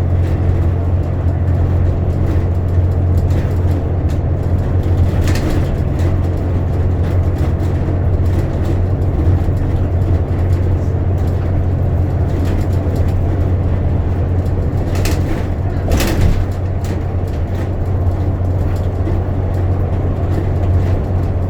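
Bus in motion, heard from inside the cabin: a steady low engine drone with road noise, and a few brief knocks or rattles about five seconds in and again near fifteen and sixteen seconds.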